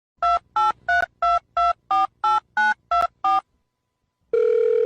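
Touch-tone telephone dialing: ten short two-tone beeps, about three a second, as a number is keyed in. About four seconds in, a steady tone comes on the line.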